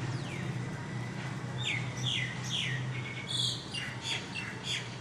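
Blue-crowned hanging parrot (serindit) calling: a quick series of short, high chirps, each sliding downward, about three a second, starting a couple of seconds in and running to near the end. A steady low hum lies underneath.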